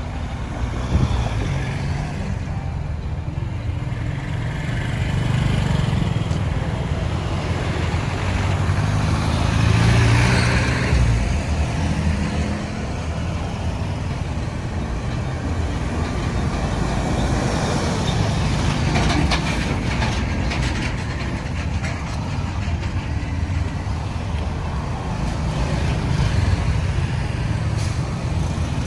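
Road traffic: a steady rumble of vehicle engines and tyres, swelling louder as vehicles pass about ten seconds in and again about twenty seconds in.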